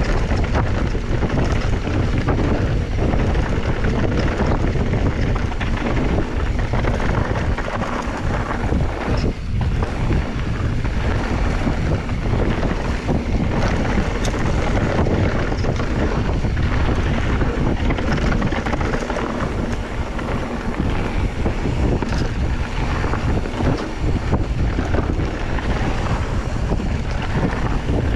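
Wind buffeting the microphone in a steady rumble with a hiss above it.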